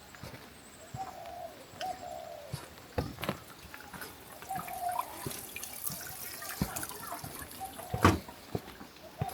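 Water dripping and trickling in the rain, with scattered sharp knocks and clicks. A short mid-pitched sound recurs every second or few.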